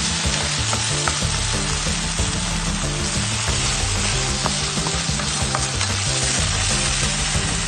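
Asparagus pork rolls sizzling as they fry in a pan while a wooden spatula stirs them, a steady hiss throughout.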